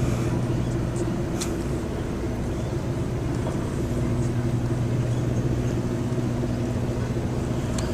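Tour boat's engine running with a steady low drone, easing slightly for a few seconds before picking up again.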